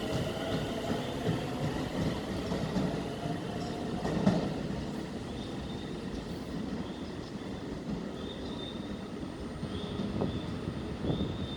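Keio commuter electric train moving through the station: a steady running rumble of wheels on rail, with a louder knock about four seconds in and again near the end. Short, faint high-pitched squeals come and go in the second half.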